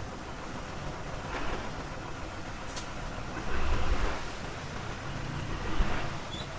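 Heavy diesel earthmoving machinery running with a steady low rumble that swells for about a second near the middle, and a short thump near the end.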